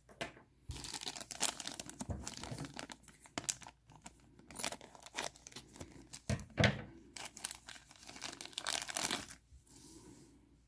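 Plastic packaging crinkling and tearing as it is handled and opened, in irregular bursts with sharp crackles and short pauses.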